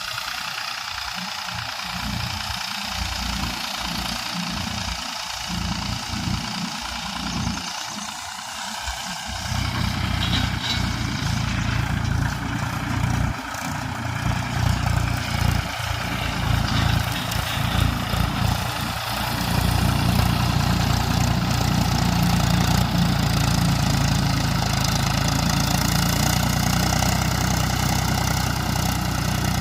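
Mahindra tractor's diesel engine running steadily. It grows fuller about a third of the way in and louder again a little past halfway.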